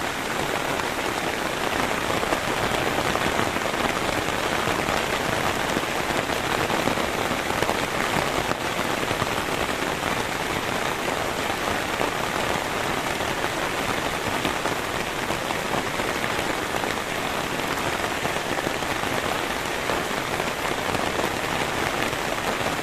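Heavy rain falling steadily, a dense even hiss of drops with no let-up. It cuts off suddenly at the end.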